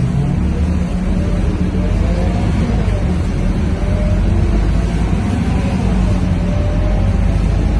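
Scania K230UB city bus's 9-litre five-cylinder diesel engine running hard, a steady low drone with a faint whine that wavers up and down in pitch.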